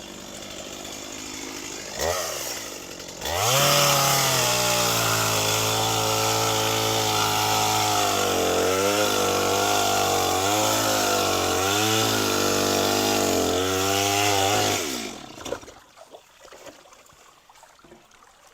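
Chainsaw idling, then opened up to full throttle about three seconds in and held for about twelve seconds while cutting wood, its pitch dipping again and again as the chain loads up in the cut. The throttle is released about fifteen seconds in and the saw goes quiet.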